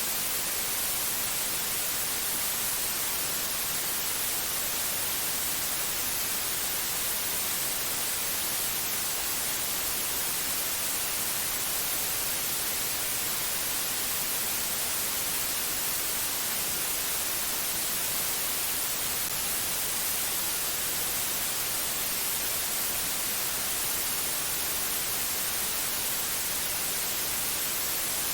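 Steady white-noise hiss with no change in level, strongest in the highest treble.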